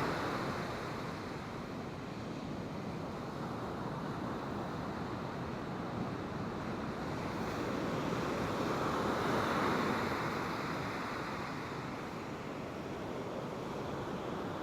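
Pacific Ocean surf washing on the beach, rising and falling, with one wave swelling loudest about nine to ten seconds in.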